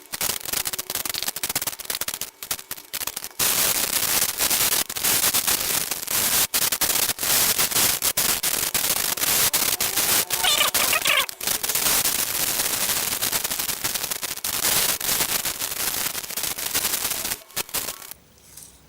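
Aluminium foil crinkling and crackling as it is wrapped around a piece of chicken, handled close to the microphone in a dense run of sharp crackles. The crackling stops shortly before the end.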